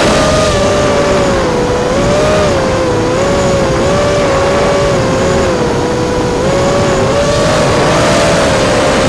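Brushless motors and propellers of an FPV racing quadcopter whining in flight. Their pitch wavers up and down with the throttle, over a rough rush of air and prop noise.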